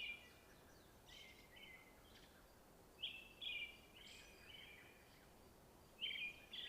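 Small songbirds chirping: a short phrase of quick high notes comes about every three seconds, with fainter chirps between, over a faint steady hiss.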